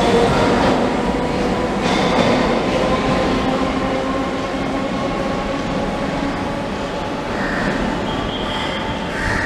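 Suburban electric multiple-unit train pulling out of the station: a steady rumble of wheels on rails with thin, steady whining tones above it, slowly fading as it draws away.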